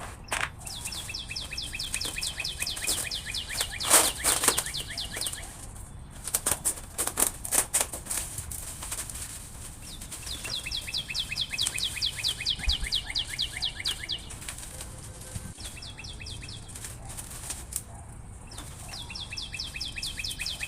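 Canary singing: fast trills of rapidly repeated falling notes in several phrases of a few seconds each. Clusters of sharp rustling clicks come at about 4 seconds and again between 6 and 8 seconds in.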